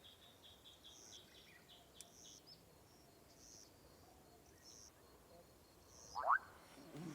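Forest wildlife ambience: a high call repeats about once a second and a fast run of high ticks fades out early on. A little after six seconds comes one louder, short rising call.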